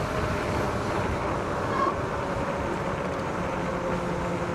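Wind rushing over the microphone while riding a dual-3000 W hub-motor electric bike, with a faint steady motor whine underneath.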